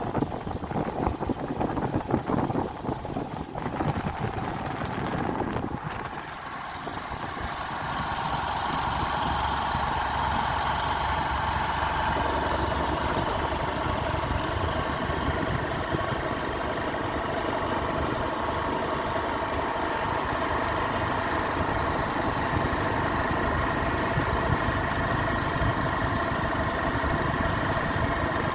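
Motorcycle engine running steadily while riding. Wind buffets the microphone for the first few seconds, then a steady engine drone takes over.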